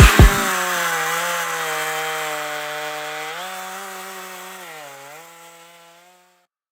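Chainsaw engine running steadily, its pitch rising slightly about three seconds in and dipping briefly near five seconds, fading out and stopping about six seconds in. A few deep thumps sound in the first half-second.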